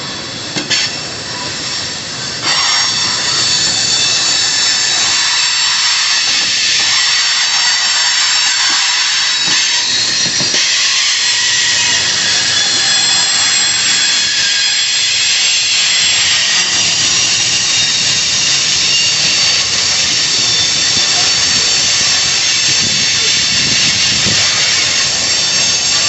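Freight cars rolling past with a steady, high metal-on-metal squeal of wheels over a hiss, louder from about two and a half seconds in.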